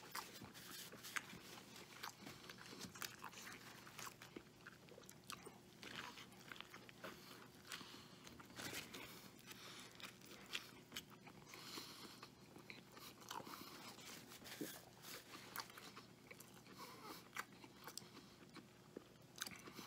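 Close-miked chewing and biting of a bacon cheeseburger: faint, irregular mouth clicks, smacks and crunches as the mouthful is worked.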